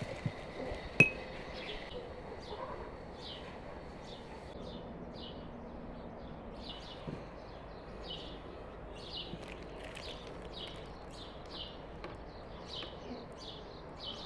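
Small birds chirping over and over, short high chirps about once or twice a second. A sharp glassy clink sounds about a second in.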